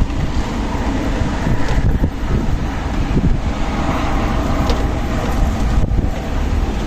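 Strong desert wind blowing steadily, with heavy low rumble of wind buffeting the microphone.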